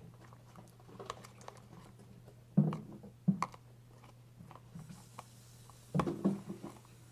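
Glue-and-borax slime being stirred in a container as it turns rubbery: irregular clicks and taps, with a few louder knocks about two and a half, three and a half and six seconds in.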